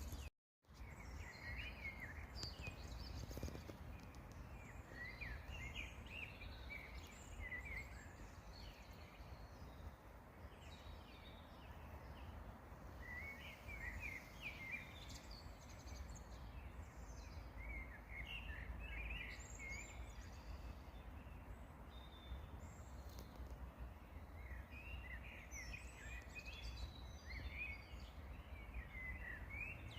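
Songbirds singing in short chirping phrases every few seconds over a steady low background rumble, with a brief dropout of all sound about half a second in.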